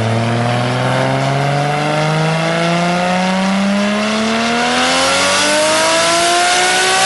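Nissan 200SX drift car's engine under full throttle on a rolling-road dyno, its pitch climbing smoothly and steadily as it pulls up through the revs in one long power run.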